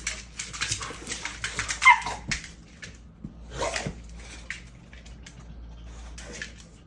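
Bully dogs scuffling, with quick scratchy rustling throughout, a short falling yelp about two seconds in that is the loudest sound, and another brief cry near four seconds.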